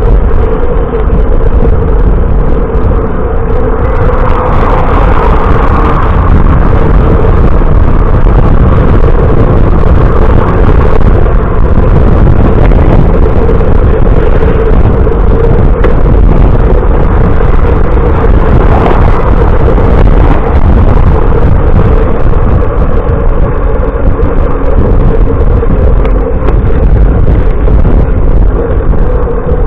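Loud, steady rumble of wind and road noise on the microphone of a camera riding along on a moving bicycle, with a constant hum underneath and no break.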